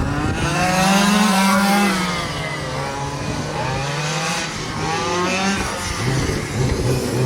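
Quarter-scale RC super trucks racing, their small engines revving and falling back in pitch in repeated waves as they drive around the track.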